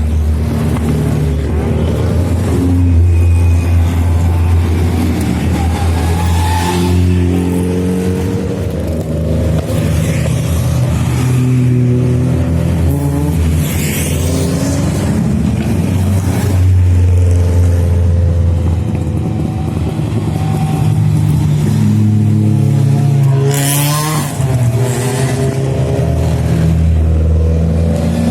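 Race car engine running hard, its pitch rising and then dropping in steps every few seconds as it goes through gear changes.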